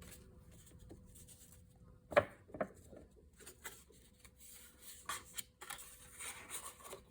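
Scrap paper and card being handled and slid about on a craft table: two light clicks about two seconds in, then soft rubbing and rustling.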